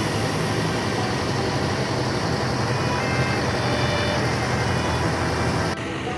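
Bus engines running with traffic noise: a steady low engine hum under a general hiss. The level drops suddenly near the end.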